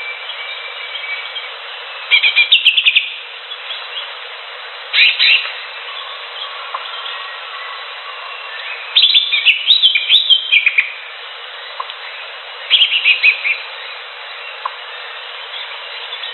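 Leafbird (cucak hijau) singing in four bursts of quick, rapidly changing chirps, the longest about nine to eleven seconds in, over a steady background hiss.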